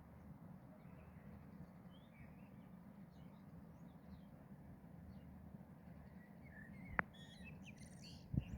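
Faint, scattered bird chirps over a low steady background hum, with a sharp click about seven seconds in and a brief flurry of chirps near the end.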